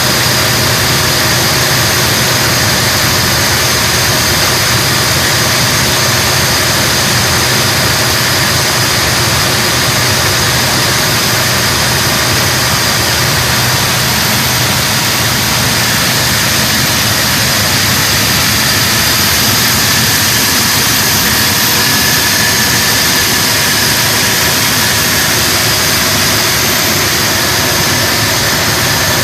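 An engine running steadily during a test run: a loud, even rushing noise with a constant high whine and a lower hum.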